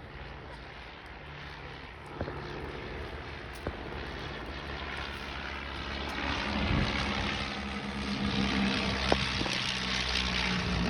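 Vintage light propeller aircraft flying past, their piston engines droning steadily and growing louder from about six seconds in as they come closer.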